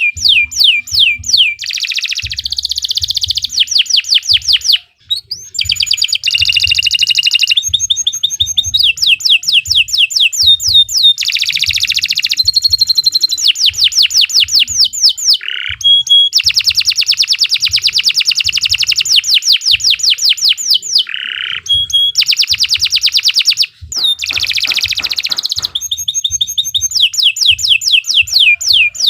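Domestic canary singing a long, continuous song of rapid trills: fast runs of repeated falling notes that switch to a new trill every second or two, broken only by short pauses about 5 and 24 seconds in.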